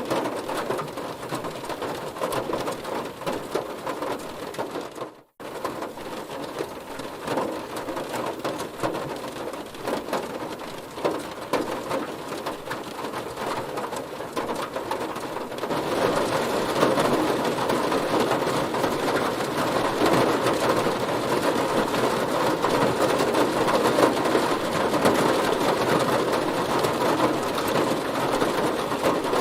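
Heavy rain hitting a car, a dense steady patter of drops. It cuts out for a moment about five seconds in and turns heavier and louder from about halfway through.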